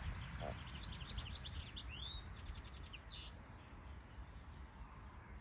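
A small songbird singing one quick phrase of high trills and chirps, with a rising note in the middle, starting about a second in, over a low steady rumble.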